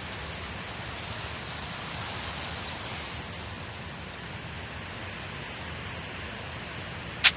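Steady, even hiss resembling falling rain, with a sharp click and two fainter ticks right at the end.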